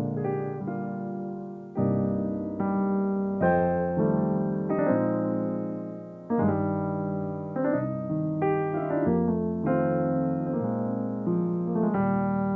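Solo piano music: chords and melody notes struck and left to ring, a new chord about every second.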